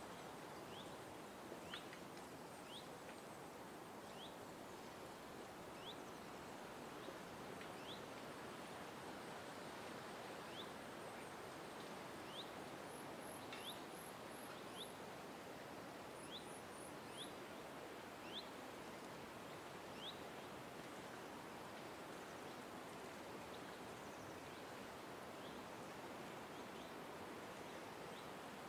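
Faint bird calls in a park: short sharp chirps repeated about once a second, with two brief runs of very high, rapid notes near the middle, over a steady background hiss of ambient noise.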